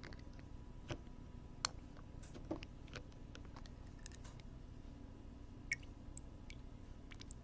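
Close-up ASMR ear-cleaning sounds on a binaural microphone's ear: soft, irregular clicks and short scratches from the cleaning tools, two sharper clicks standing out, over a steady low hum.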